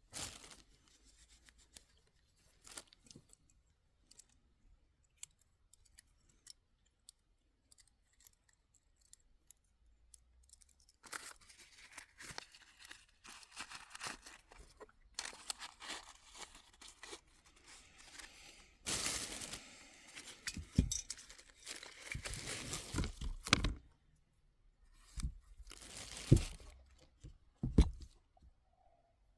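Close handling noises: scattered small clicks and ticks, then a long stretch of rustling and tearing from about eleven seconds in, with a few dull knocks near the end.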